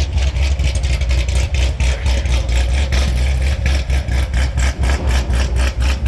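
A car engine idling: a strong, steady low rumble that pulses about six times a second.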